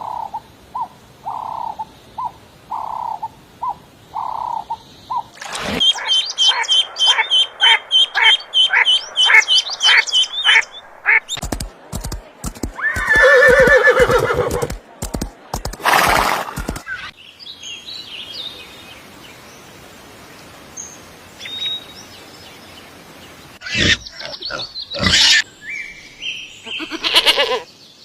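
A series of different animal calls edited one after another. The sound changes abruptly every five or six seconds: evenly repeated calls at first, then a rapid run of calls, then sharp clicks with a pitched call, then scattered calls.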